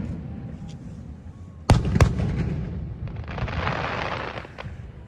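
Aerial fireworks bursting: two sharp booms about a third of a second apart a little under two seconds in, then a rushing crackle lasting about a second and a half.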